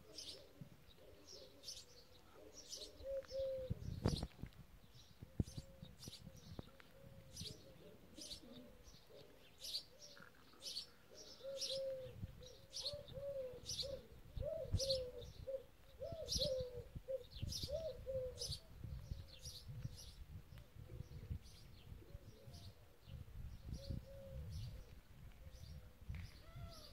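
Birdsong: a small bird repeats a short high chirp about once or twice a second, over a dove cooing in a long run of low, curving notes that dies away in the second half. Bursts of low rumble come and go under the birds.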